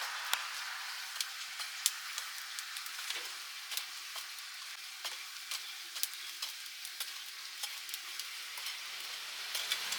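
Meat sizzling over hot charcoal: a steady hiss with frequent sharp, irregular crackles and pops.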